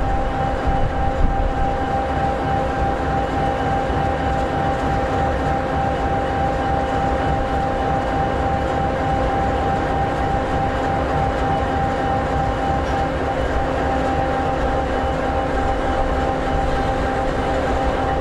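EMD 16-710G3B V16 two-stroke diesel engine of an SD60E locomotive idling: a steady low rumble with a constant whine riding over it.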